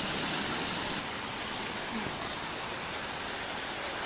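Waterfall rushing: a steady, even hiss of falling water, a little brighter from about a second and a half in.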